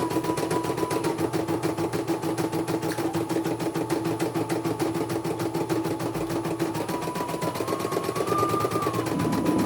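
Computerized embroidery machine stitching: a fast, even needle rattle over a steady motor hum, with a whine that drops in pitch about a second in and rises again near the end as the speed changes.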